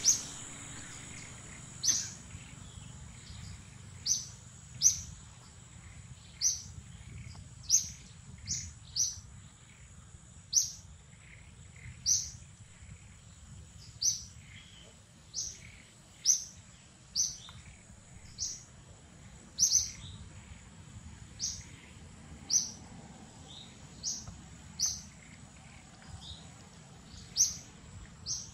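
A bird calling with short, sharp, high chirps, one every second or so, about two dozen in all, over a thin steady high whine.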